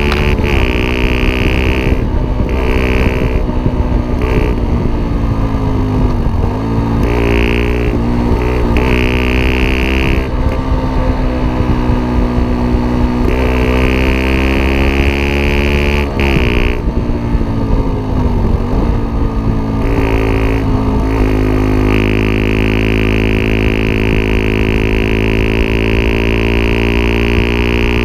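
Yamaha WR 125 R's 125 cc single-cylinder four-stroke engine with a Takkoni aftermarket exhaust, revved up and let fall back several times, then held at steady raised revs near the end.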